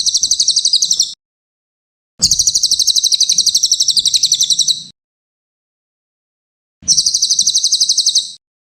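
Cililin songbird giving three bursts of fast, high, rattling trill, about nine pulses a second. The first burst ends about a second in, the second runs about two and a half seconds, and the third starts near the end, with silence between them.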